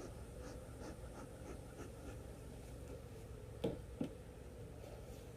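Steady hum of honeybees from an opened hive, with light scraping and ticking as the hive box is worked. Two sharp knocks come a little past the middle, about a third of a second apart.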